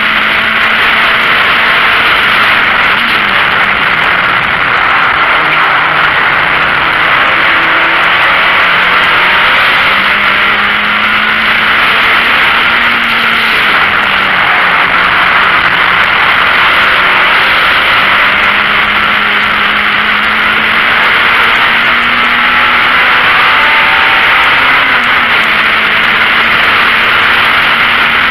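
VW Golf Mk1 race car's four-cylinder engine under hard driving, heard from inside the cabin, its note climbing slowly through the revs and dropping back several times. A loud steady rushing noise of wind and road runs under it.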